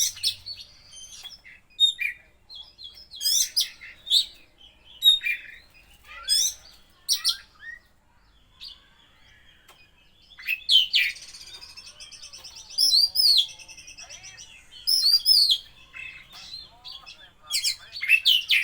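Oriental magpie-robin (kacer) singing a loud, varied song of short whistled and chirped phrases packed with mimicked calls, with quick rising and falling notes and a buzzy trill about halfway through.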